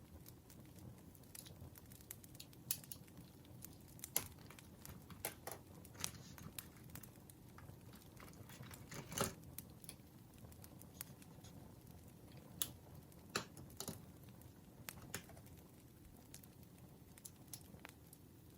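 Campfire burning quietly, its wood crackling and popping at irregular moments over a low, soft rumble of flame, with a few sharper pops about four, nine and thirteen seconds in.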